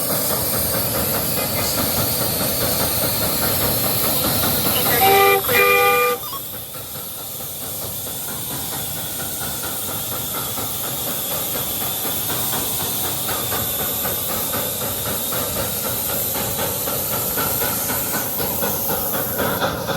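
1/8-scale live-steam Hiawatha locomotive working hard as it pulls away with a full passenger train, its exhaust chuffing over a steady steam hiss. Its whistle blows once for about a second, about five seconds in.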